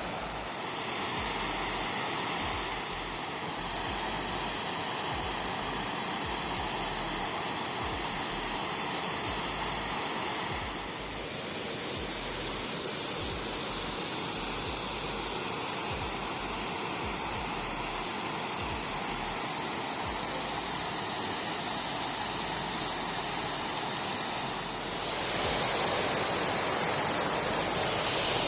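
Rushing water pouring through the open spillway shutters of a dam in flood-season discharge, a steady dense roar that grows louder near the end.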